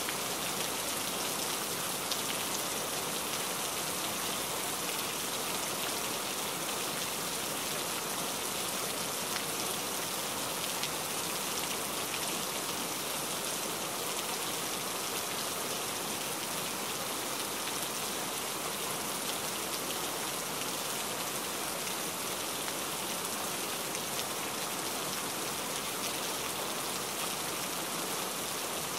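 Steady rain falling: an even, dense hiss of many drops, with faint single drop ticks scattered through it.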